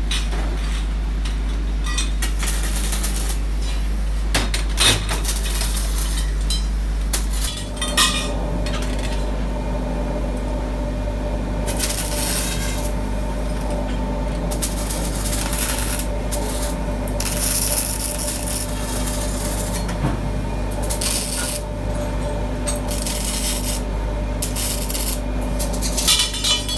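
Workshop machinery humming steadily, with irregular scraping and clinking of metal parts being worked.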